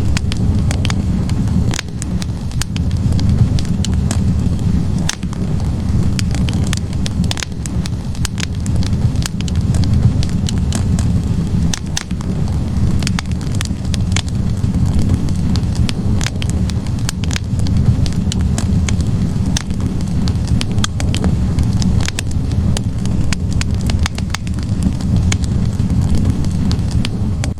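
Wood fire burning in a fireplace: a steady low rumble of the flames with frequent irregular pops and crackles of the burning logs.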